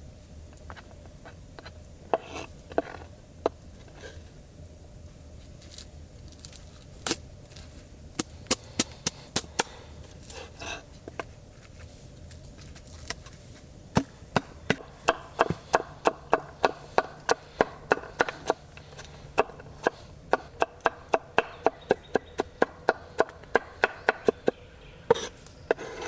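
Knife chopping on a wooden board: scattered chops at first, then a steady run of about three to four chops a second from about halfway.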